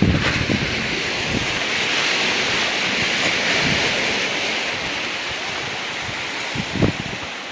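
Ocean surf washing in, swelling to a peak about a third of the way through and easing off, with wind buffeting the microphone in gusts just after the start and near the end.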